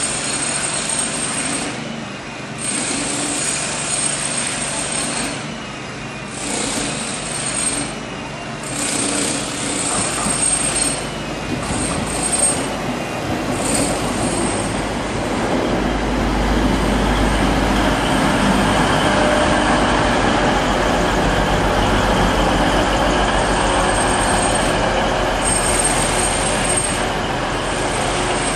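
A First TransPennine Express Class 185 diesel multiple unit pulling into the platform. Its engine and its wheels on the rails make a steady low drone that grows louder about halfway through and stays loud as the train draws alongside.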